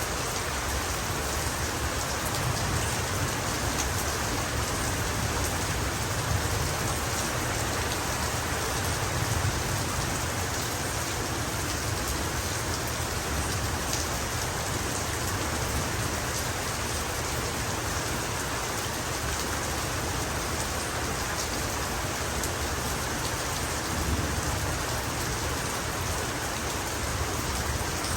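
Heavy rain falling steadily, with a low rumble of thunder swelling a few times.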